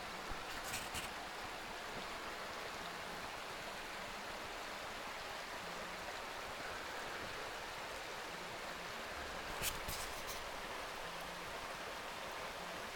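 Steady, even outdoor hiss, with two short clusters of clicks, one about a second in and one about ten seconds in.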